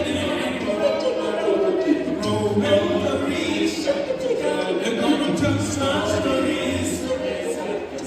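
An a cappella vocal group singing in harmony, unaccompanied, with a low bass part coming in and out beneath the upper voices.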